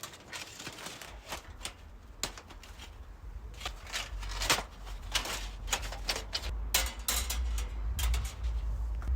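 Irregular clicks and rustles, growing busier about halfway through, over a low rumble.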